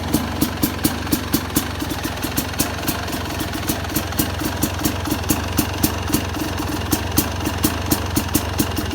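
Yamaha YZ250X two-stroke single-cylinder engine idling with its ignition timing retarded further by a moved pulser coil. A steady low hum with sharp, slightly uneven pops about three to four times a second.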